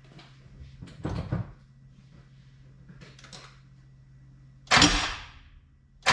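Hand-tool work on the car's harmonic balancer: a short metallic clatter about a second in, then a loud burst of clanking noise near the end, over a steady low hum.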